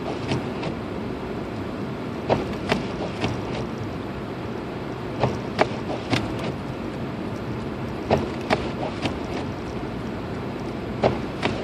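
Steady road and tyre noise inside a Lexus IS250 AWD driving through snow, with a group of three sharp clicks repeating about every three seconds.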